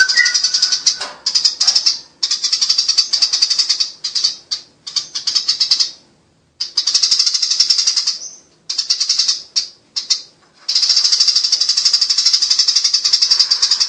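Eurasian tree sparrows giving their fast, harsh fighting chatter, rapid trills in runs of a second or more broken by short pauses, with a long unbroken run near the end.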